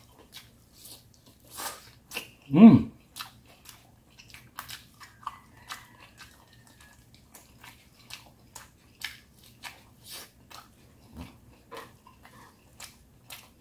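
Close-miked mouth sounds of a man chewing and biting boiled lechon pork: small wet clicks and smacks at an irregular pace. About two and a half seconds in there is one short, loud voiced 'mm'.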